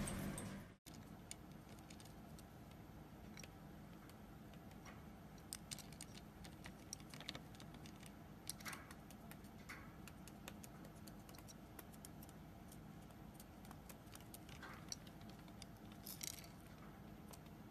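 Near silence with faint, scattered small clicks and taps over a low steady hum.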